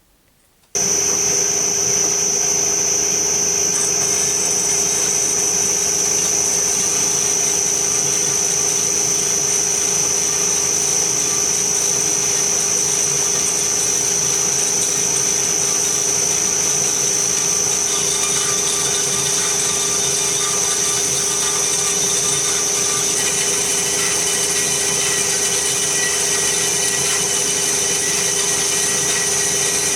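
Electric power tool motor starting suddenly and running steadily with a constant high whine, with extra higher tones joining in during the second half as it works the 3 mm brass plate.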